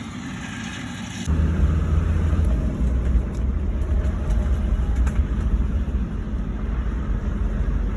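A motor vehicle on the move: a steady low engine and road rumble that comes in suddenly about a second in and holds.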